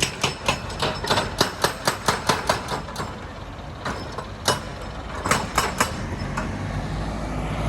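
Heavy quarry machinery working stone: a rapid run of sharp knocks and clanks, about four or five a second for the first three seconds, then a few scattered ones, over a low engine rumble that grows louder near the end.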